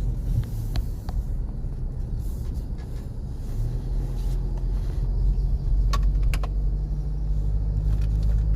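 Steady low rumble of a moving vehicle, engine hum and road noise, with a few sharp clicks about six seconds in and again near the end.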